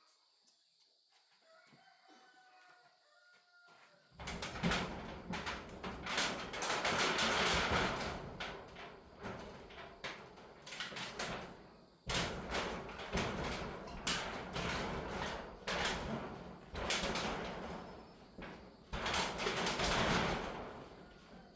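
A rooster crows faintly. Then, about four seconds in, loud gusting storm wind and rain begin, swelling and easing in waves and breaking off sharply for a moment about halfway through.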